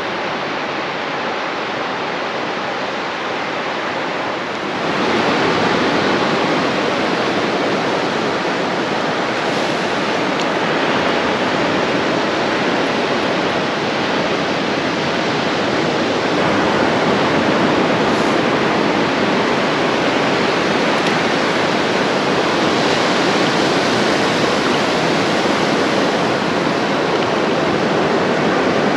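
Ocean surf breaking on a beach: a steady wash of noise that grows louder about five seconds in.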